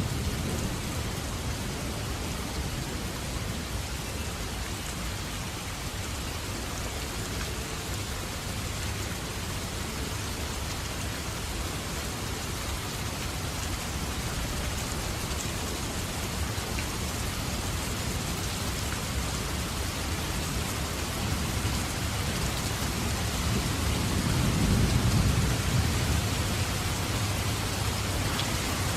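Steady heavy rain falling on a surface during a thunderstorm. A low rumble of thunder swells and fades near the end.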